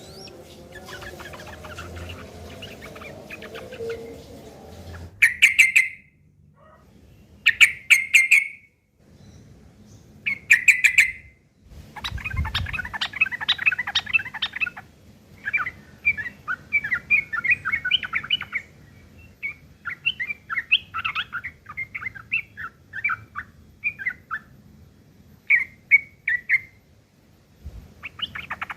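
Yellow-vented bulbul (trucukan) calling harshly in fighting mode. Three loud bursts of calls about two and a half seconds apart are followed by long runs of rapid, rough chattering notes, with short bursts again near the end.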